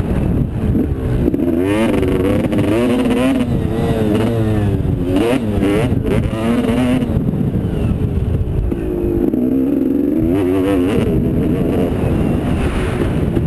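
Motocross bike engines revving hard, their pitch rising and falling again and again as the riders accelerate and shift, over a steady low rumble.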